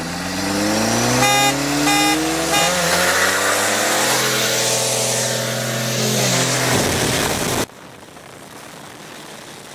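A car horn honks three short times about two-thirds of a second apart as a drag-race start signal, over a Cummins 24-valve turbo diesel revving up. It then runs under full acceleration with a loud hiss of spinning tires. The sound cuts off suddenly about three-quarters of the way through.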